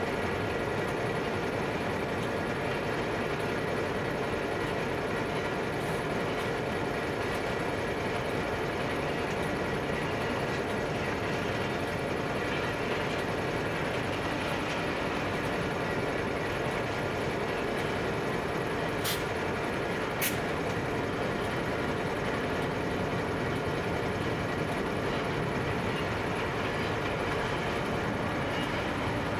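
Freight train of intermodal container wagons rolling steadily past, over the steady sound of a standing Pacific National NR-class diesel-electric locomotive. Two brief, sharp high-pitched ticks come about two-thirds of the way through.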